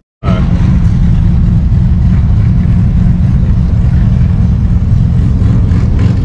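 Car engine running loud and steady after a split-second dropout at the very start.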